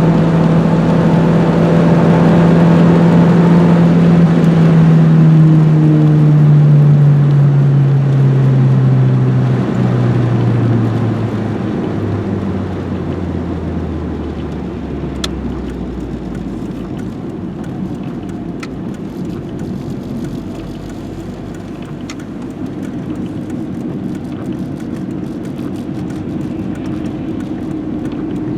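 Renault 21's 1.7-litre carburetted engine slowing down: its note falls steadily over about fifteen seconds as the car decelerates, then settles into a quieter, steady rumble. There are a few faint clicks near the middle.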